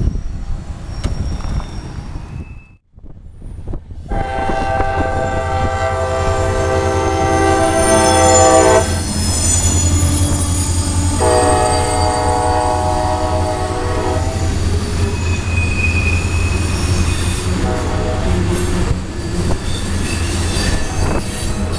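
Freight tank train rolling through a sharp curve, its wheels squealing against the rail over a steady low rumble. The locomotive horn sounds two long blasts, the first about four seconds in and the second about eleven seconds in.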